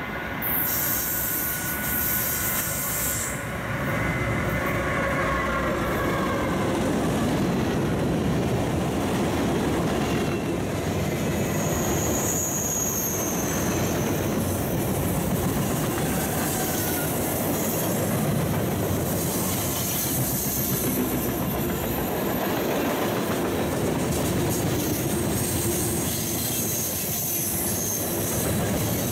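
Freight train passing close by. The locomotive comes by in the first seconds with a tone that slides slightly lower, then the freight cars roll past with a steady rumble and clatter of wheels on rail and a high wheel squeal now and then.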